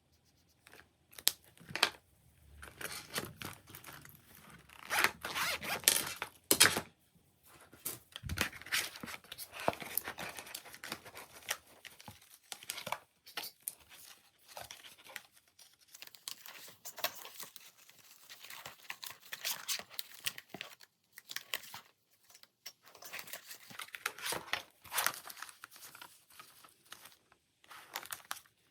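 Paper banknotes and plastic budget-binder envelopes being handled while stuffing cash: irregular bursts of rustling, crinkling and zipper-like rasping.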